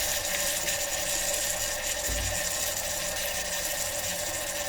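Onion and capsicum sizzling in hot oil in an electric kettle, a steady hiss, with one brief low thump about two seconds in.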